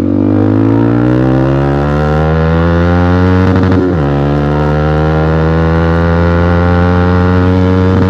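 Yamaha R15 V3's single-cylinder engine through an aftermarket Akrapovic exhaust, held at steady high revs with the pitch creeping slowly upward. It dips and picks up again about four seconds in.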